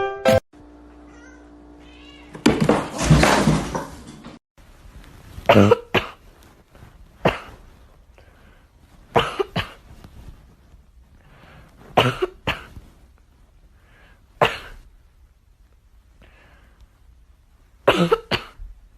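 A cat coughing or hacking in about seven short, sharp bursts spaced a second or more apart, after a louder rasping, noisy stretch near the start.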